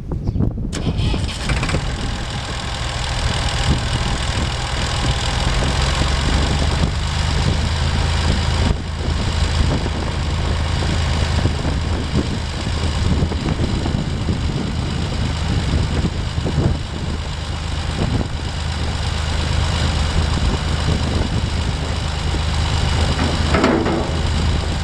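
Massey Ferguson 135 tractor engine starting about a second in, with oil pressure already built up by cranking, then running at a steady idle.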